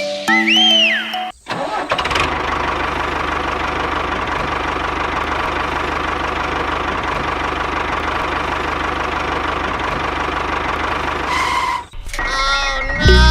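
An engine running steadily, starting about a second and a half in and cutting off abruptly near the end. A short tune plays at the very start.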